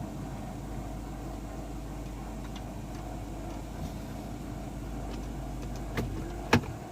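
2013 Dodge Durango R/T's 5.7-litre Hemi V8 running at a steady idle, an engine prone to stalling, a fault the owner traced to a bad fuel pump relay. Two sharp clicks near the end, the second louder.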